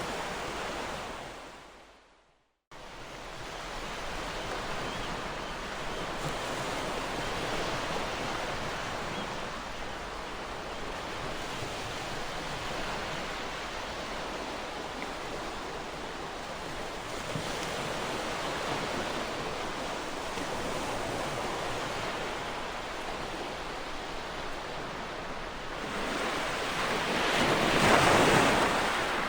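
Ocean surf washing steadily onto a shore. Early on it fades out to a moment of silence and cuts back in abruptly, a splice in the recording, and near the end a bigger wave builds and breaks, the loudest moment.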